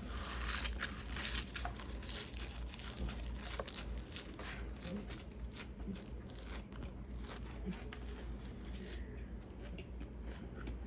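Chewing a large mouthful of raw baby arugula: a steady run of crisp, crackling crunches, busiest in the first second or so.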